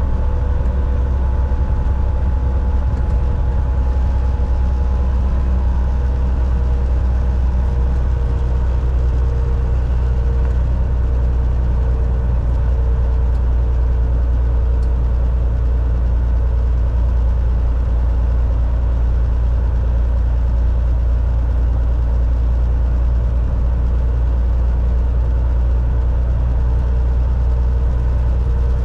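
Volvo VNL 760 semi truck's diesel engine running steadily, heard from inside the cab as a deep, even drone with a faint steady whine over it.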